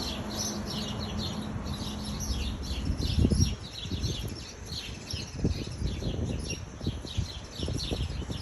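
Small birds chirping, a rapid, continuous run of short high chirps, with scattered low thumps underneath.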